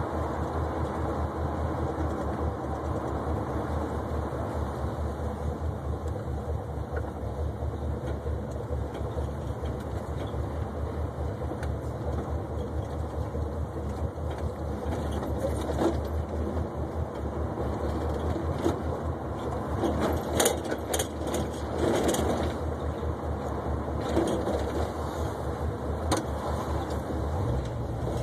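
1972 Oldsmobile 442's V8 engine running as the car is driven, a steady low rumble, with a scatter of sharp clicks and knocks about two-thirds of the way in. The engine note steps up just before the end.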